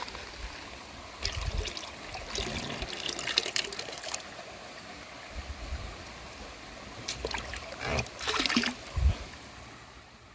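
Mountain stream water trickling and running, with louder rushes of splashing a few times.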